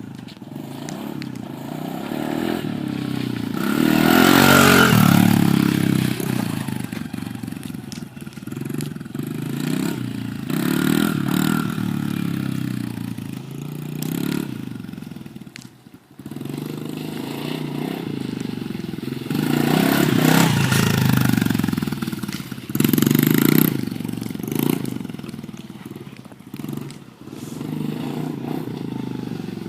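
110cc dirt bike engine being ridden, revving up and dropping back in repeated surges as the throttle is opened and closed. It cuts out briefly about 16 seconds in, then picks up again.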